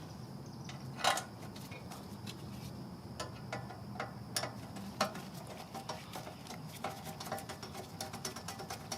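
Light metallic clicks and ticks from hand tools and hardware during reassembly. There is one sharper click about a second in, and the ticks come quicker and more regularly in the second half.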